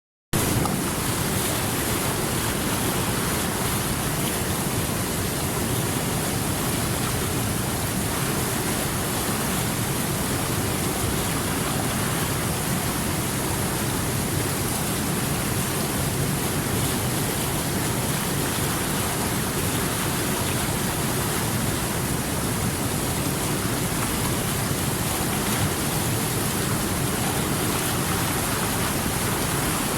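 River water rushing and churning in a steady, unbroken flow.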